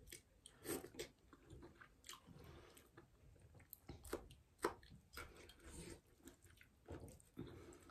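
Faint close-up eating sounds: a person chewing millet dhido and fish curry, with scattered short wet clicks and smacks from the mouth.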